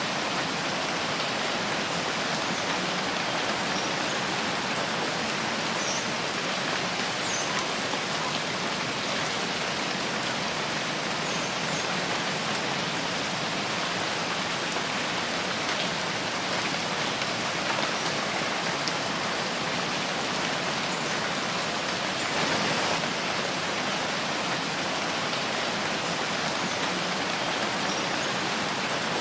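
Steady rain falling in a forest, a dense even hiss of many drops with occasional faint separate drip ticks.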